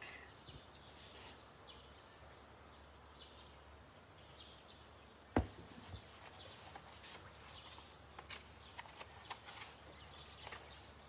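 Quiet handling noise while the coloring book is brought close up: faint soft rustles and small ticks, with one sharp tap about five seconds in.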